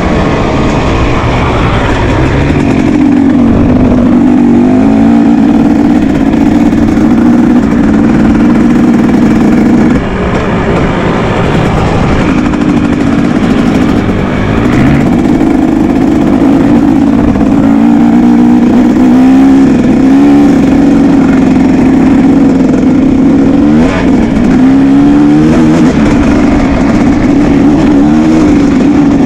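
Several motocross motorcycle engines running loud and close, revving up and easing off over and over as the bikes change throttle and gears, with the pitch climbing and dropping throughout.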